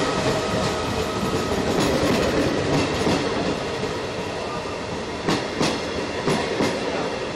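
Trenitalia passenger coaches rolling past along a station platform, a steady rumble of wheels on rails with several sharp wheel clacks in the second half.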